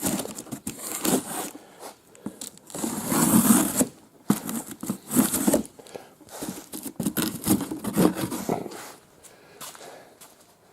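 A knife cutting into a parcel's packaging, with irregular scraping and tearing strokes, the loudest about three seconds in.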